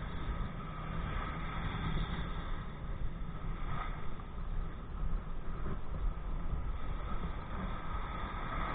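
Steady rushing of wind on the microphone and water moving past a kite-towed kayak: a continuous low rumble with hiss over it, and a brief swell in the noise about four seconds in.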